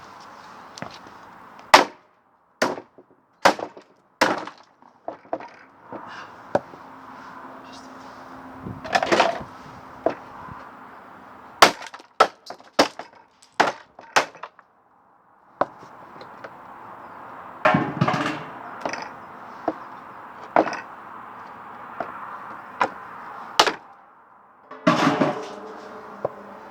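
Hammer blows smashing the plastic housing off a tumble dryer's motor: irregular sharp cracks and knocks, with denser bursts of plastic cracking and splintering about a third of the way in, about two-thirds in, and near the end.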